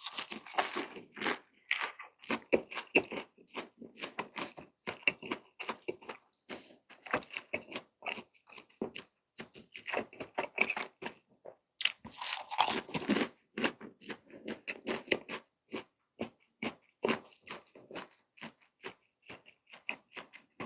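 Close-miked chewing and crunching of a breaded cheese stick: irregular crisp crunches and wet mouth clicks. Louder crunches come right at the start and again about twelve seconds in, as fresh bites are taken.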